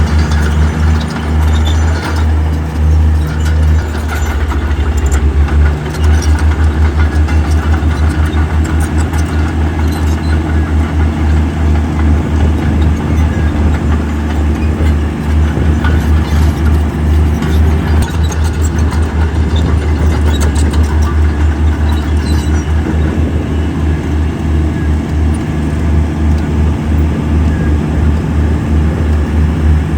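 Heavy diesel engine of earthmoving equipment running under load, with a deep steady throb and scattered metallic clanks.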